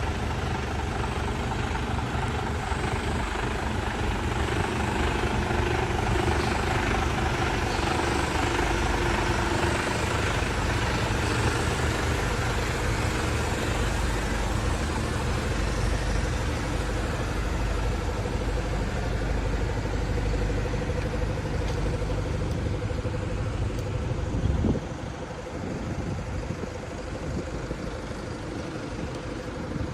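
The diesel engine of a Sany 56 m concrete pump truck runs steadily, with a faint held whine over the low rumble. About 25 seconds in there is a short knock and the low rumble drops away abruptly, leaving a quieter running sound.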